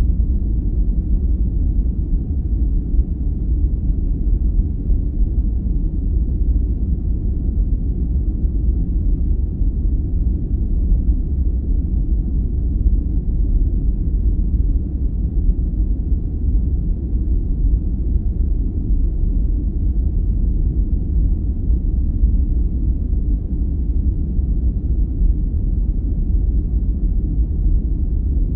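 Steady, unbroken sleep noise: a deep, even rumble with no hiss, its sound almost all in the low bass.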